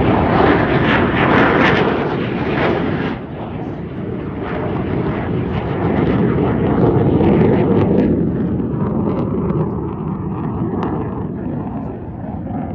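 Loud engine noise of an aircraft passing low. It dips about three seconds in, swells again a few seconds later, then fades.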